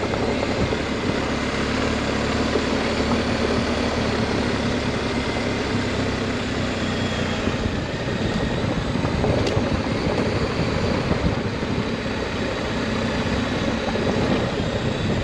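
Adventure motorcycle running steadily under way on a dirt road, its engine note mixed with wind and road noise.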